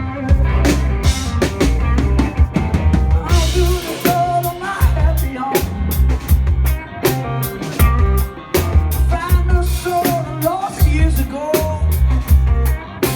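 Live rock band playing, the drum kit keeping a steady beat of bass drum and snare hits under pitched melodic lines.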